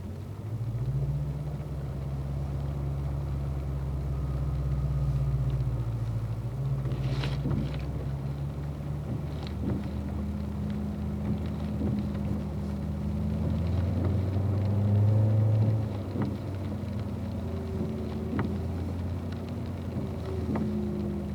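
Car engine heard from inside the cabin, picking up about a second in as the car pulls away at low speed, its pitch stepping up and down a few times as it drives and shifts. A few faint clicks come through over the engine.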